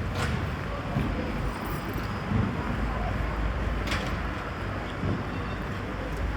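Street atmosphere: a steady low rumble of traffic with passers-by talking, and two sharp clicks, one near the start and one about four seconds in.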